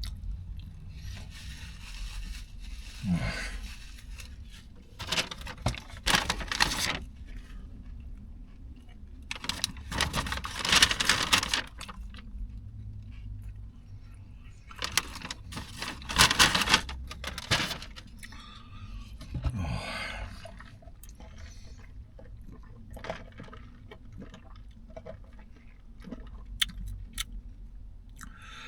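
Close-up eating sounds of a sub sandwich being chewed, with short noisy bursts of rustling and scraping every four to five seconds and small scattered clicks.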